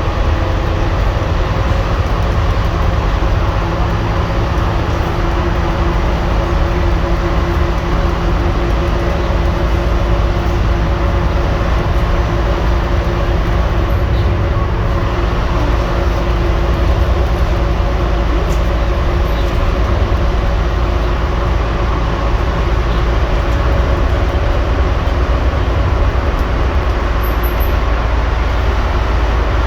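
Scania N230UD double-decker bus's diesel engine running at a steady speed, a constant deep rumble with an even drone and no gear changes or revving.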